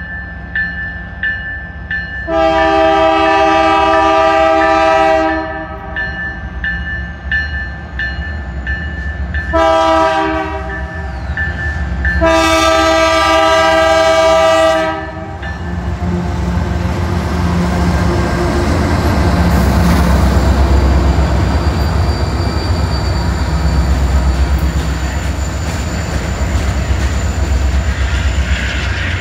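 Canadian Pacific diesel locomotive's air horn sounding a long blast, a short blast and another long blast for a road crossing, then the lead locomotives passing close with their diesel engines running and the freight cars' wheels rolling over the rails.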